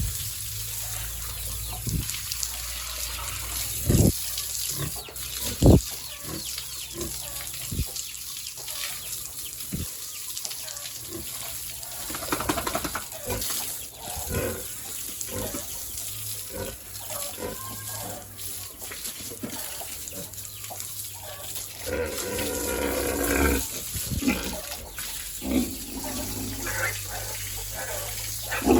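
Pigs grunting and squealing, with several sharp knocks and a steady hiss underneath; the longest call comes near the end.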